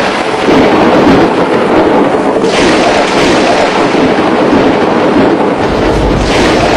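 Loud, steady rush of torrential rain and floodwater, shifting in tone about two and a half seconds in and again near the end.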